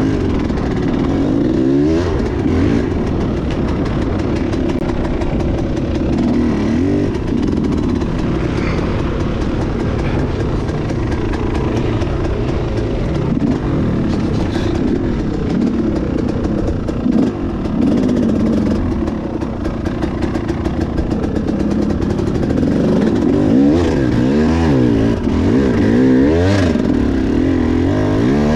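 Enduro motorcycle engine being ridden hard, its revs rising and falling over and over as the throttle is worked.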